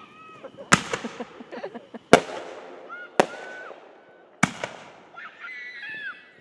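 Fireworks exploding overhead: four sharp bangs a little over a second apart, each trailing off in a crackling, echoing tail.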